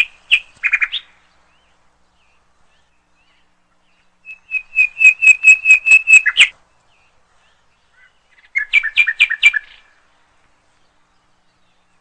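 A bird singing in clear, quick repeated notes: a brief burst at the start, then a run of about a dozen notes lasting two seconds that grows louder, and a shorter two-pitched phrase a few seconds later.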